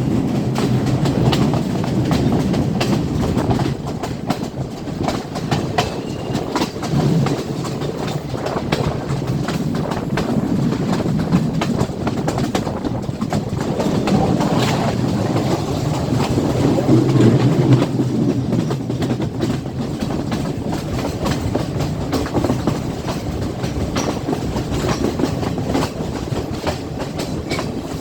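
Passenger train running along the track: a steady rolling noise from the wheels and carriages, with many short clicks from wheels passing over the rail joints.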